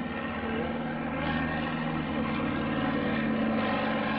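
Piston engine of a propeller-driven aircraft running steadily in flight, getting a little louder after about a second.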